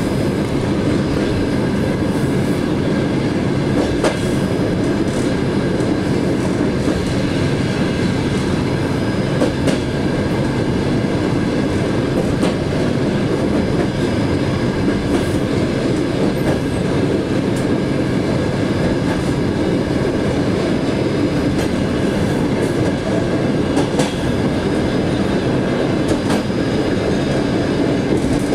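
Passenger train running along the line, heard from inside the rear vestibule of its last car: a steady rumble and rattle of the car and its wheels on the rails, with a few sharp clacks.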